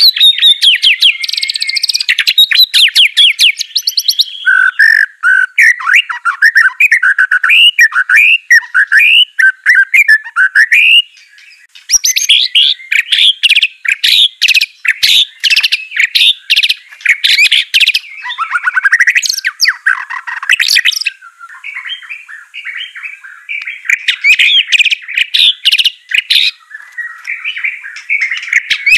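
White-rumped shama (murai batu) singing loudly: a varied, continuous run of rapid whistled phrases, fast trills and chattering notes. It breaks off briefly about eleven seconds in, then carries on.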